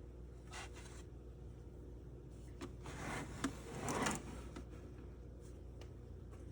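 Lathem 7000E time clock being worked: a few light clicks, then a short mechanical whirring rattle about three to four seconds in with one sharp click in the middle, as a time card is fed in and printed.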